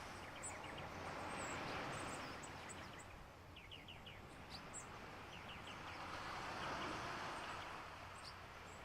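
Faint steady outdoor background noise with small birds chirping now and then, including a quick run of four chirps about three and a half seconds in.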